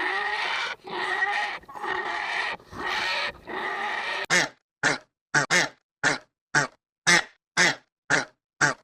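Repeated animal calls: a series of long, pitched calls with short breaks, then from about four seconds in, short clipped calls about two a second.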